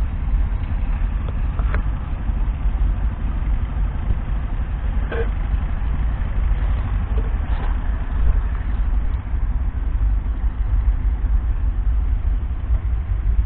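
The McCormick X7.690 tractor's 6.7-litre six-cylinder diesel engine running steadily with a deep, even rumble, with a couple of brief faint knocks over it.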